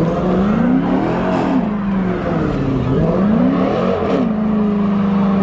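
Car engine revved up and down about three times in quick succession, then held at a steady pitch from about four seconds in.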